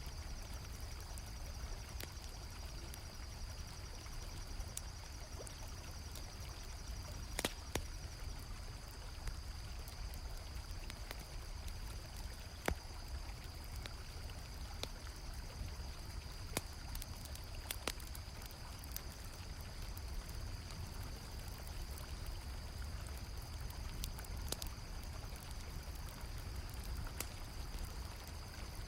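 Mixed night ambience: a river's steady flowing water, a campfire crackling with scattered sharp pops, and crickets chirring in a steady high trill.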